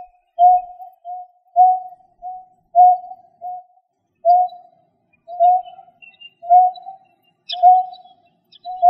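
A bird repeating a low, hollow hooting note in loud-soft pairs, about one pair a second, as on a recorded lure call. A few faint high chirps sound near the end.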